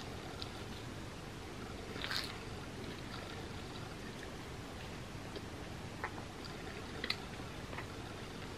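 Close-miked chewing of a grilled cheese sandwich: soft, wet mouth sounds with a louder burst about two seconds in and a few small clicks later on.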